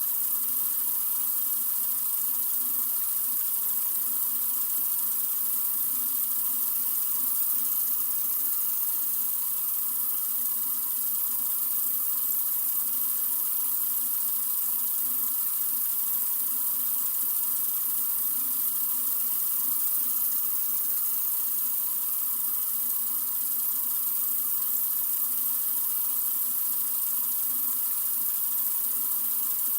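Sink faucet running in a steady, unbroken stream of water, an even hiss with no changes.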